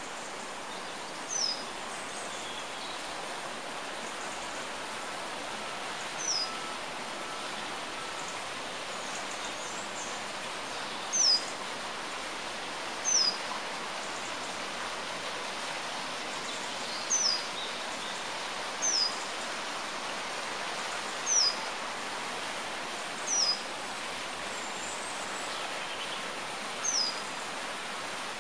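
A small songbird repeating a short, thin, high call that slides downward, nine times at uneven gaps of two to five seconds, over a steady background hiss.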